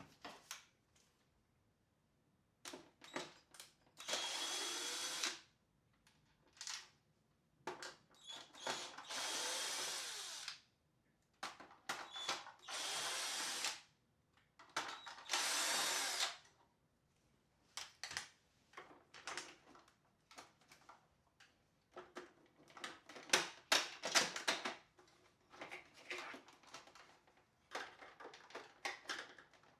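Electric screwdriver backing screws out of a Tineco floor washer's plastic housing in four short runs of a second or two each, whining steadily while it turns. After them come many small clicks and rattles of plastic parts and screws being handled.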